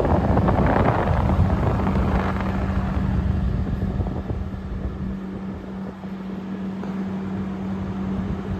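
General Electric 5,000 BTU window air conditioner running: the fan blows a steady rush of air over a constant low compressor hum, louder in the first few seconds and then easing to an even level.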